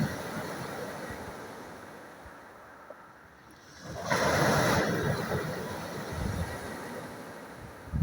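Sea waves on a shore: one wash fades away over the first few seconds, then a new wave breaks about four seconds in and slowly dies down.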